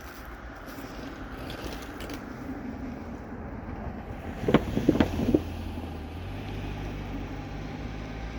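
Freight train led by a GE ES44AH diesel locomotive approaching and passing, its noise building, with a quick cluster of loud knocks around the middle followed by a steady low engine hum.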